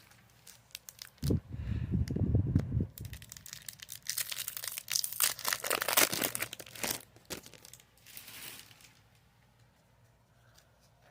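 Foil wrapper of a Pokémon card booster pack crinkling and being torn open, in crackling bursts. A low rumble of handling comes about a second in.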